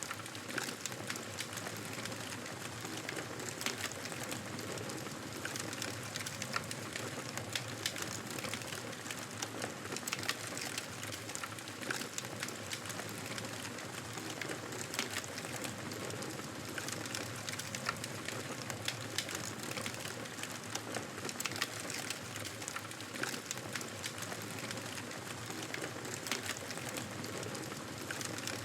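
Wood fire burning in a fireplace: a steady rushing hiss of flames with frequent small, irregular crackles and pops.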